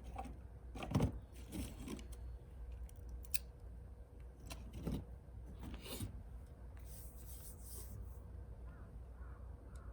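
Handling noise from cooking gear: scattered clicks, knocks and scrapes, with the loudest knock about a second in and a stretch of scraping near the end.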